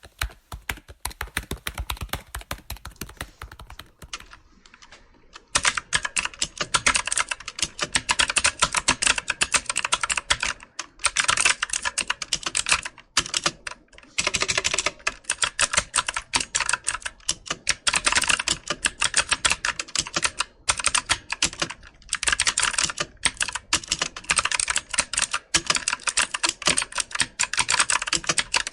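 Typing on a computer keyboard: rapid, steady keystroke clicks with brief pauses between bursts. There is a short lull about four seconds in, before the typing picks up again.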